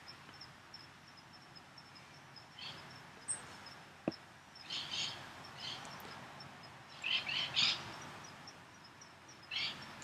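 Faint background bird chirps: clusters of short, high chirps come several times, over a steady high-pitched rapid pulsing. A single click about four seconds in.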